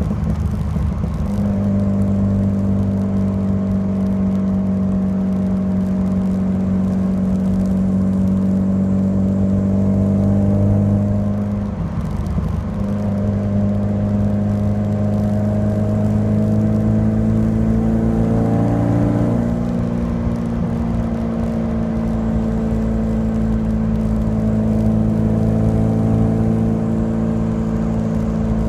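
Alfa Romeo Alfasud Sprint QV's 1.5-litre flat-four boxer engine running at a steady speed through its stainless steel exhaust. The revs dip briefly about twelve seconds in and rise for a moment around eighteen seconds, otherwise holding an even note.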